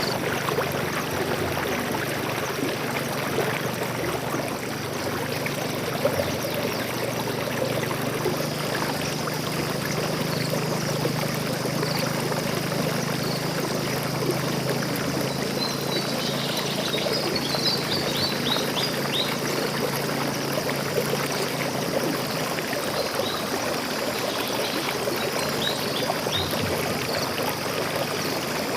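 Stream water flowing and trickling steadily. A bird calls a quick run of short high chirps about halfway through, with a few more scattered chirps later.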